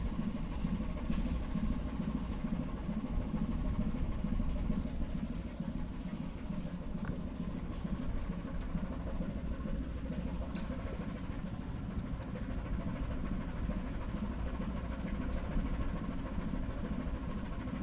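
Ship's engine running steadily: a low, even drone.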